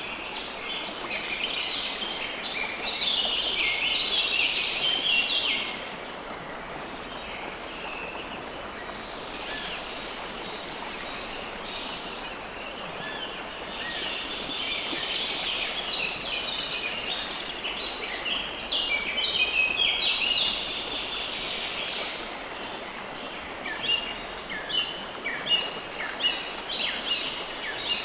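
Steady rush of flowing river water with a chorus of small birds chirping over it, the chirps coming in busy clusters and, near the end, as a run of quick separate calls.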